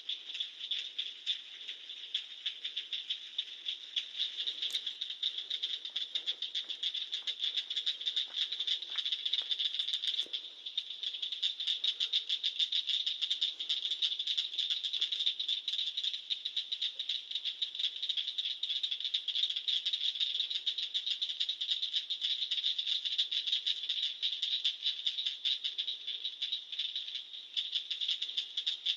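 A dense night chorus of many animal callers trilling together, heard as a steady, high, fast-pulsing buzz with no break.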